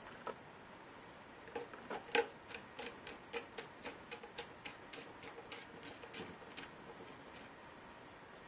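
A quick, even run of light clicks, about four or five a second, starting about one and a half seconds in and stopping after about five seconds, from hand work on a laptop during disassembly.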